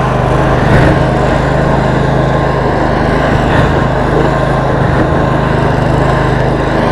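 Roper lawn tractor's 22 hp Briggs & Stratton V-twin engine running steadily.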